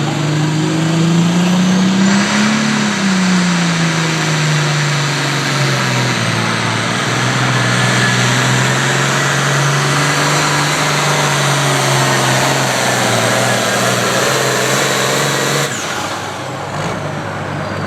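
A pulling vehicle's engine at full throttle, dragging the weight sled down the track. Its pitch rises for the first couple of seconds, dips, then holds steady, and the engine sound drops off sharply near the end as the run finishes.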